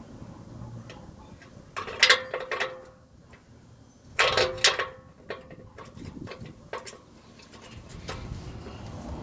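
Metal wrench clicking and clinking against the exhaust while an oxygen sensor is worked loose: two short bursts of sharp clicks, about two seconds apart, each with a brief metallic ring, then a few fainter ticks.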